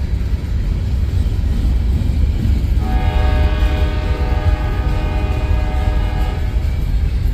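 Freight locomotive air horn sounding one chord-like blast of about three and a half seconds, starting nearly halfway through, over the steady low rumble of a passing train.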